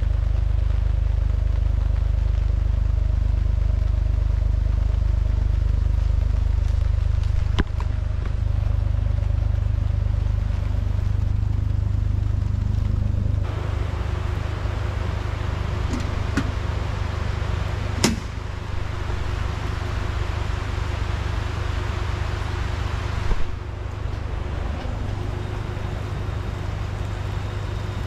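Car running on the road, a steady low rumble of engine and road noise. The sound changes abruptly several times, with a few faint clicks.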